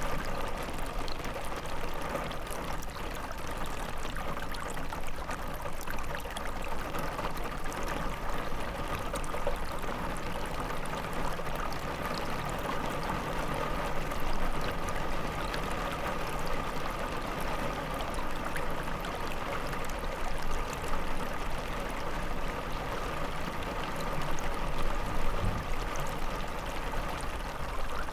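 Steady rain falling hard, an even wash of noise with faint scattered drop ticks.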